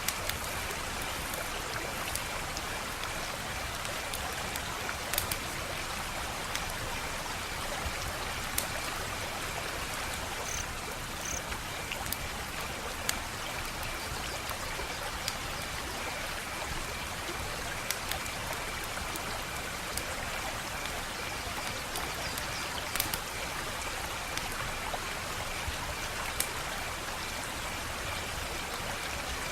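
Wood fire crackling: a steady hiss with sharp pops and snaps scattered at irregular moments.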